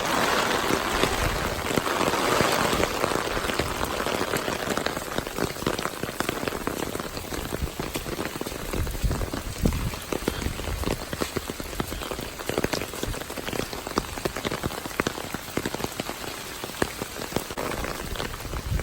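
Heavy rain falling steadily, with many sharp close drop hits through a dense hiss, easing slightly in loudness over the stretch.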